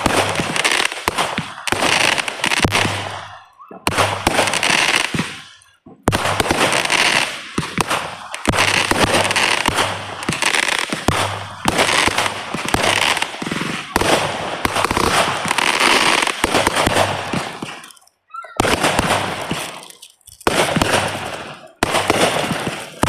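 Fireworks going off in rapid, dense volleys of bangs and crackling, in several runs with short breaks between them.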